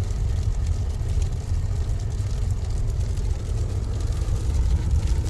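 A car driving on a snow-covered road, heard from inside the cabin: a steady low rumble from the engine and tyres.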